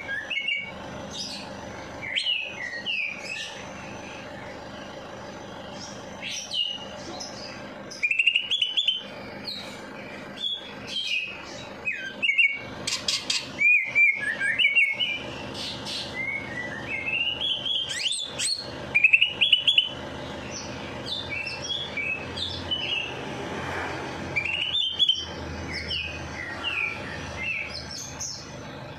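Caged songbirds chirping and singing in quick short phrases, many overlapping, with louder bursts now and then, over a faint steady hum.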